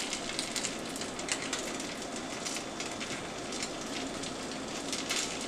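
Hash brown patties sizzling as they fry in a nonstick pan over high heat: a steady hiss with frequent small crackles and pops.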